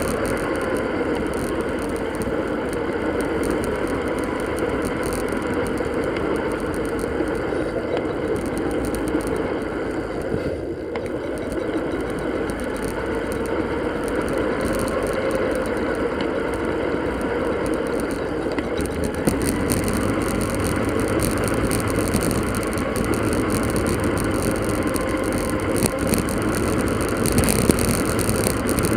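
Steady riding noise from a bicycle on the move, sped up four times.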